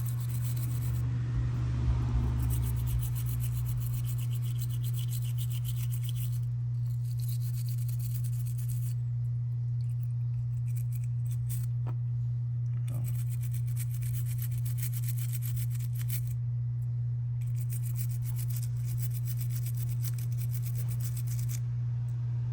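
Toothbrush scrubbing paint off small plastic model-car parts wet with isopropyl alcohol, in spells of a few seconds, over a steady low hum.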